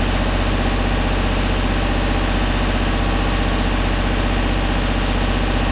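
An engine idling steadily with an even, low, pulsing hum.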